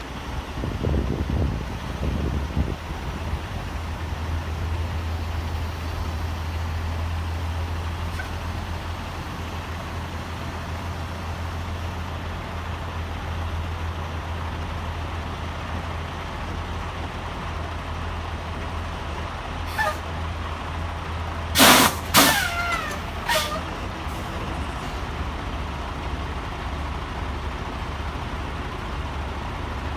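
Steady low drone of a semi truck's engine and road noise inside the cab while driving. A little past two-thirds through there is a brief loud burst of squeals, their pitch sliding downward.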